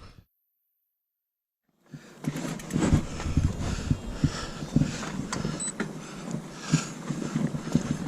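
Mountain bike rattling over a rough trail, a steady clatter of many small irregular knocks. It starts about two seconds in, after a short stretch of dead silence.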